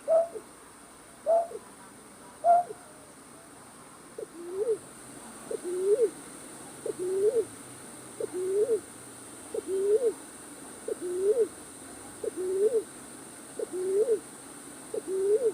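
Night bird's hooting call, repeated as a lure for trapping night birds: three higher notes in the first few seconds, then a steady series of hooked, rising-then-falling hoots about once a second.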